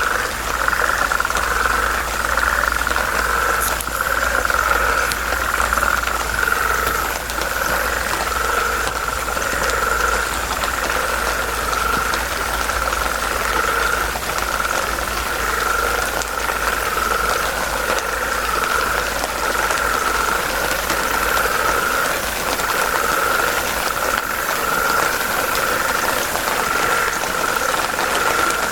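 A dense chorus of frogs calling continuously, a rapid pulsing trill held at one pitch without a break, over a steady low rumble.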